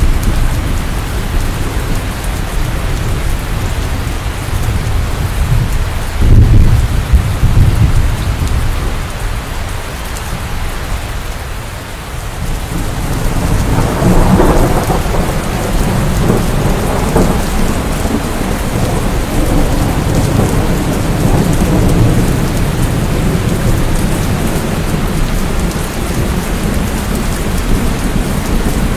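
Steady heavy rain with thunder rumbling low underneath. A louder roll of thunder builds about halfway through and rolls on to the end.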